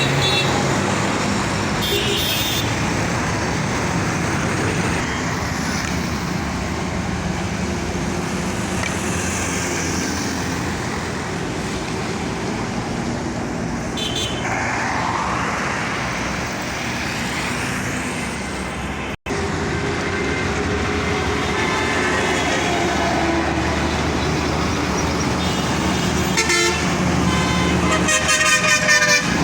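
Road traffic with bus and vehicle engines running and horns honking now and then, with a cluster of honks near the end. The sound drops out for an instant partway through.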